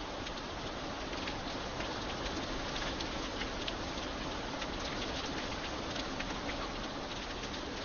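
Steady light rain falling, an even hiss with many individual drops ticking sharply on a hard surface.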